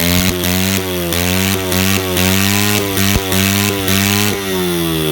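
Pit bike engine held at high revs with a regular stutter about twice a second, then the revs drop near the end. It is being revved to try to make it backfire, and no backfire comes.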